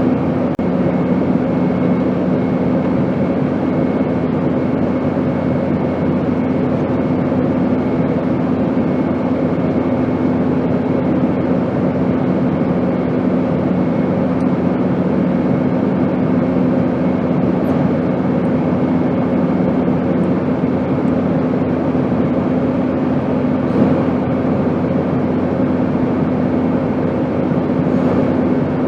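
Steady airplane noise: an even rushing drone with a constant low hum running under it, unchanging.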